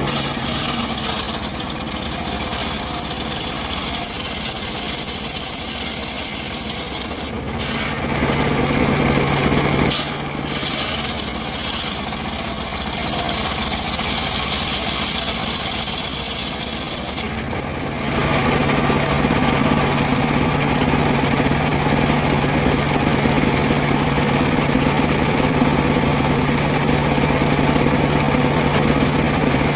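Power saw cutting through wood with a steady rasping hiss that breaks off briefly twice. About seventeen seconds in the cutting stops, and the saw runs free with a steady hum.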